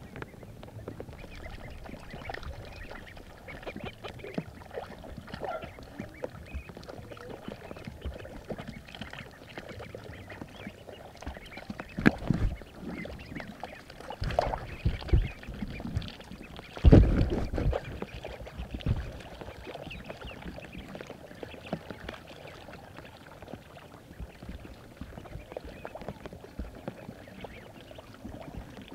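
Ducks quacking, with a few louder sudden sounds about twelve seconds in and again around fifteen and seventeen seconds.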